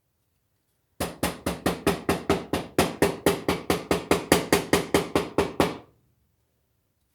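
Knife chopping carrot on a cutting board: about twenty quick, even knocks, roughly four a second, stopping shortly before the end.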